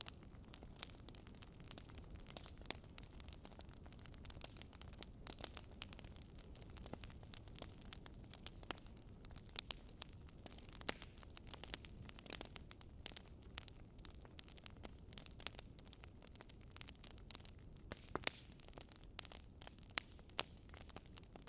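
Wood fire crackling in a fireplace: frequent irregular pops and snaps over a low steady rumble.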